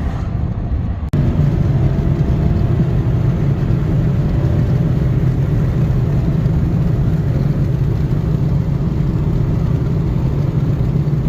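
Steady drone of a car driving along the road, engine and tyre noise with no speech. About a second in it cuts abruptly to a louder stretch of the same drone.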